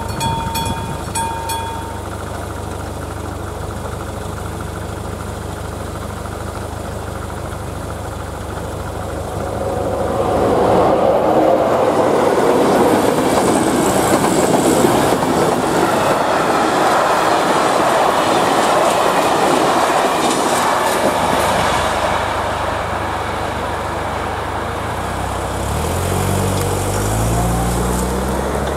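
Level-crossing warning bell (AŽD 71) ringing rapidly, stopping about two seconds in. From about ten seconds in, a passenger express train passes over the crossing with a loud rumble and clatter of wheels lasting about ten seconds, then fading. Near the end a car engine revs up as it pulls away over the crossing.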